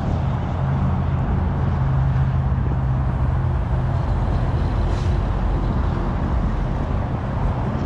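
A vehicle engine running with a steady low rumble, a low hum held for a few seconds in the first half.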